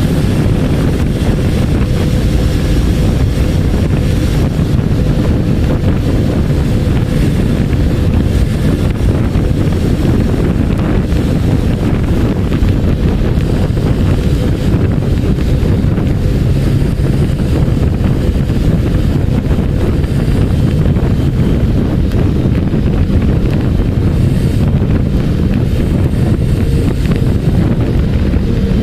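Wind rushing over the microphone on a moving motorbike, mixed with road and engine noise: a loud, steady rumble with no breaks.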